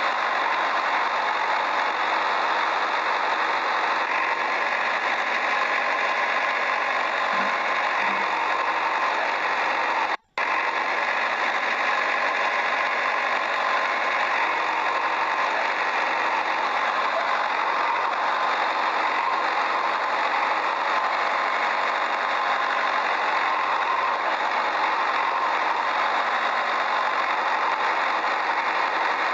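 An engine running steadily without change in speed, cut off completely for a moment about ten seconds in.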